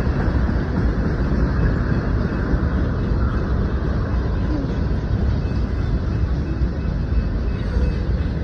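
Freight train rolling steadily past at close range: tank cars, boxcars and covered hoppers running on the rails, a continuous low-heavy noise with no horn.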